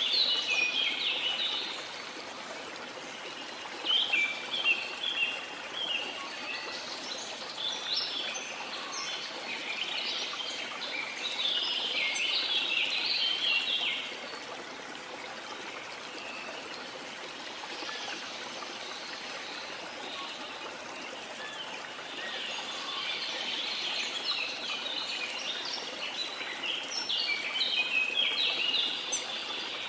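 Steady rush of a waterfall with tropical forest birds chirping in bursts over it; the birds fall quiet for several seconds in the middle, then pick up again near the end.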